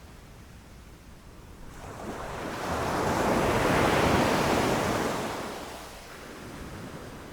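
Ocean waves breaking on a beach: one wave swells in about two seconds in, crashes loudest around four seconds, and washes away, over a steady low surf noise.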